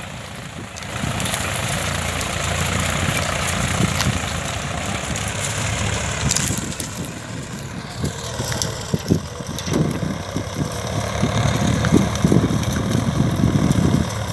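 Massey Ferguson 1035 tractor's three-cylinder diesel engine running steadily at idle, with sharp irregular clicks over the last several seconds.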